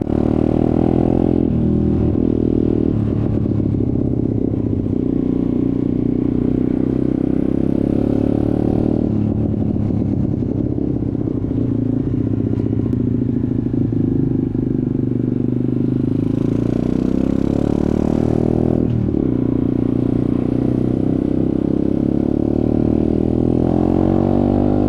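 Off-road motorcycle engine running under way, its note climbing and then dropping sharply three times, about a second and a half, nine and nineteen seconds in, as the rider works the throttle and gears.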